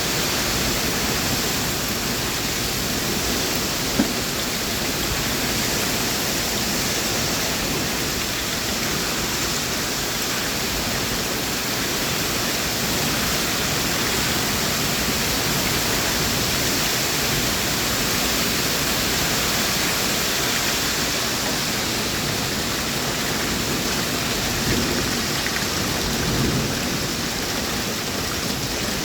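Heavy rain falling steadily, an even rushing hiss. A single short, sharp knock stands out about four seconds in.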